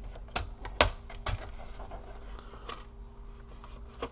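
A few light clicks and taps of a screwdriver and the plastic laptop case being handled, three close together in the first second and a half and another about a second later, over a steady low hum.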